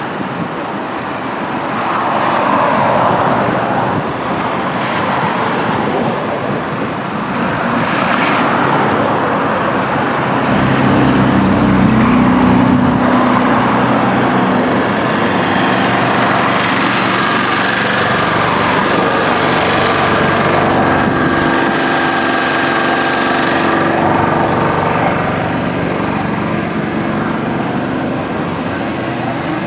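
A tram running amid city road traffic: steady traffic noise, with the tram's motor whining in steady tones from about a third of the way in.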